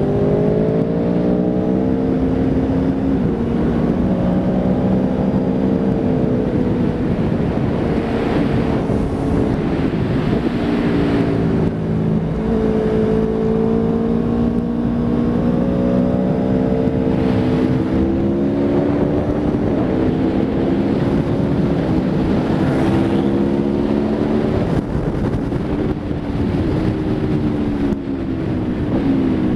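Aprilia Tuono V4 RR's V4 engine at speed on track, its note climbing and dropping repeatedly as the rider works through the gears, with wind noise over the microphone.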